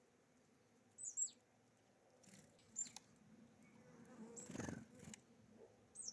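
Small songbirds at a feeder giving a few brief, high chirps that fall in pitch, spaced a second or two apart, with a soft rustle around the middle.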